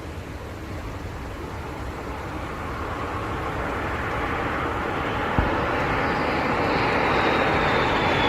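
Aircraft engine noise growing steadily louder, with a faint high whine coming in over the last few seconds and one short knock about five seconds in.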